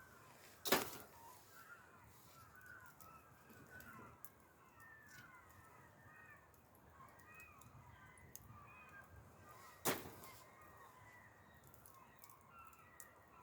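Wood fire crackling faintly, with two sharp loud snaps, one about a second in and another about nine seconds later, over birds calling steadily in the background.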